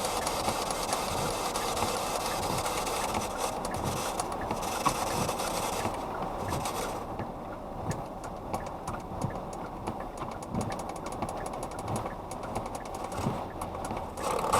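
PSB-11 radio-sweep box scanning through radio stations, giving a choppy hiss of static broken by rapid clicks as it steps from channel to channel. About six seconds in the upper hiss drops away, cut back by its noise gates.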